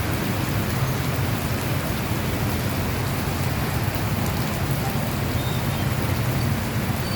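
Heavy monsoon rain falling steadily, with a low steady rumble underneath.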